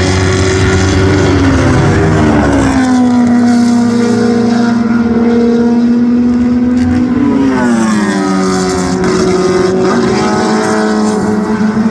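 Historic racing car engines running at high revs, loud and continuous; the engine pitch glides down twice, about two seconds in and again around seven to eight seconds in, and holds steady between.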